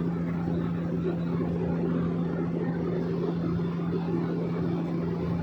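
Steady drone of a small private airplane's propeller engine heard from inside the cabin: a constant low hum over a rushing noise, unchanging throughout.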